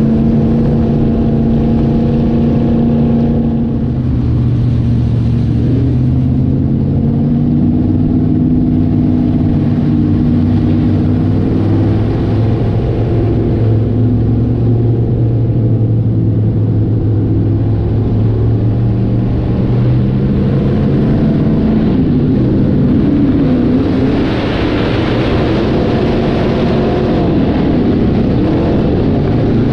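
Several dirt-track modified race cars' V8 engines running hard on the track, their pitch rising and falling as the cars throttle through the corners and down the straights. The engine noise gets harsher for a few seconds near the end.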